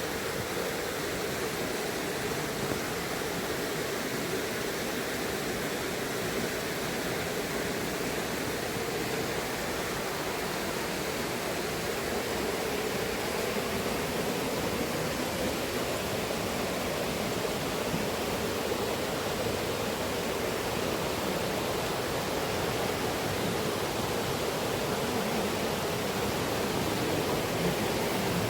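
Waterfall, its water falling and rushing steadily with an even roar that does not let up.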